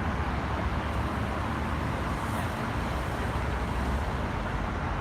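Steady freeway traffic noise: a continuous low rumble and hiss of passing cars.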